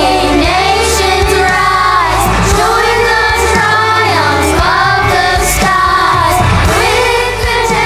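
Children singing a song together over instrumental accompaniment, in phrases of about a second each.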